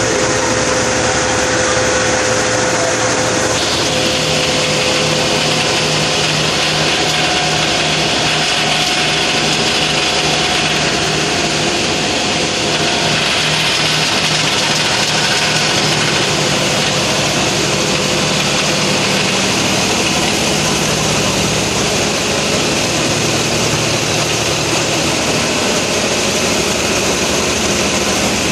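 Engine room of a 600 GT roll-on/roll-off ferry, with the ship's diesel engines and machinery running steadily and loud. A steady low hum runs under a dense clatter and hiss, and the hiss grows stronger about three and a half seconds in.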